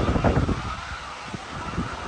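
Wind buffeting the microphone in irregular low gusts that die down about half a second in, leaving a steady hiss.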